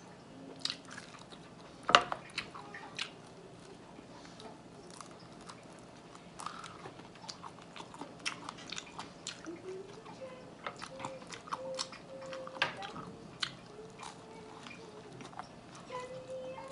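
Close-miked eating: a person chewing and biting buffalo chicken wings and a cheesy breadstick, with many small wet mouth clicks and smacks. A sharp click about two seconds in is the loudest sound.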